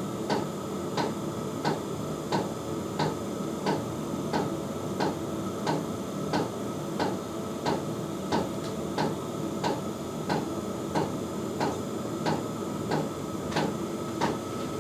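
Small pump running with a steady, even knocking, about two knocks a second, over a low hum. It is a 'tuk-tuk-tuk' rather than a tick, the usual noise of a non-silent pump.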